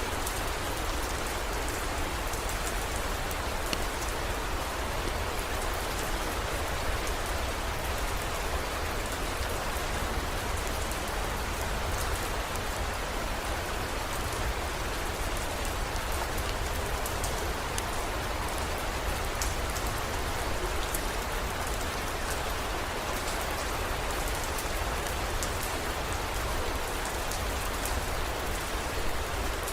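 Steady heavy rain, an even wash of noise with many small drop ticks through it, over a low steady rumble.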